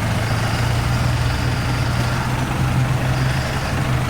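Off-road vehicle's engine running steadily at low revs, a constant low hum with road and tyre noise.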